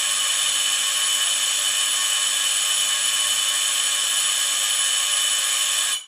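Electric buzzer doorbell held down, giving one steady buzz that cuts off abruptly near the end.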